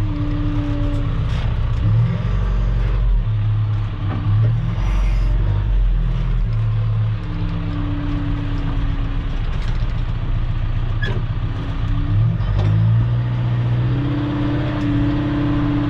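Heavy equipment engine running under load while dragging and packing a gravel road, its note shifting up and down as the load changes, with a few metallic knocks.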